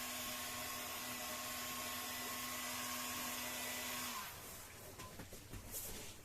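Heat gun blowing steadily with a steady motor hum, switched off about four seconds in, its fan note dropping away; light handling knocks follow.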